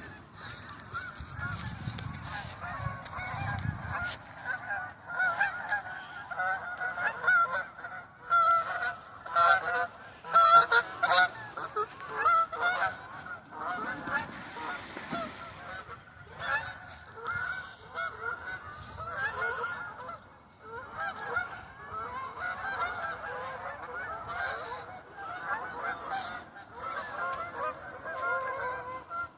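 A flock of geese honking continuously, many calls overlapping, loudest about ten seconds in.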